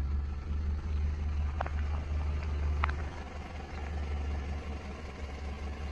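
Car engine idling with a steady low rumble as the car creeps forward over silicone pop-it toys, with two short clicks a little over a second apart.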